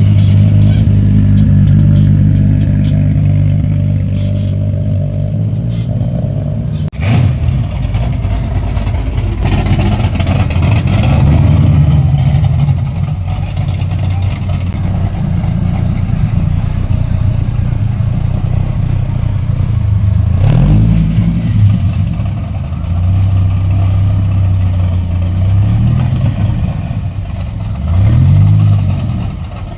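Car engines idling with a steady low note, revved in several short throttle blips that rise and fall in pitch. A single sharp knock comes about seven seconds in.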